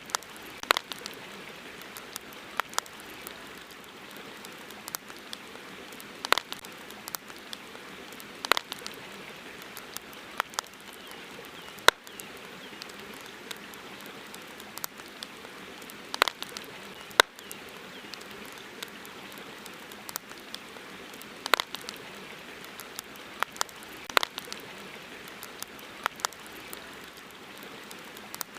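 Campfire burning: irregular sharp pops and snaps over a steady hiss, a few of the pops much louder than the rest.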